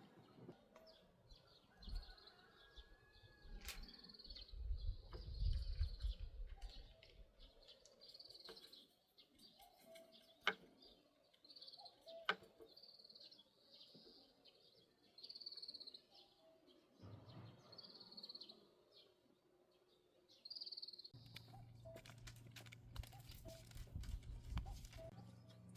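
Small birds calling faintly with short chirps repeated every second or so. There is a low rumble about five seconds in and two sharp clicks around the middle.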